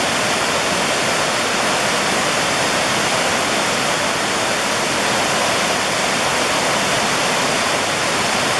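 Mountain stream rushing over rocks: a loud, steady roar of water with no break.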